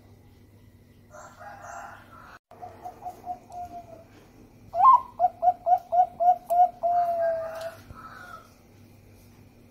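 Zebra dove (perkutut) cooing in two phrases, each a quick run of short, evenly spaced coos ending in a longer drawn-out coo. The second phrase comes about halfway through, is louder and opens with a rising note.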